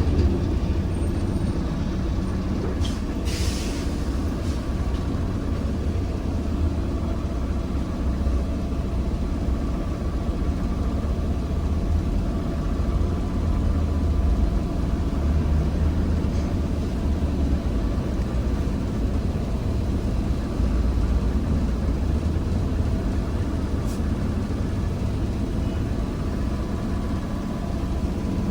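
ZiU-682G trolleybus running, heard from on board: a steady low rumble with a faint constant hum, and a brief hiss about three seconds in.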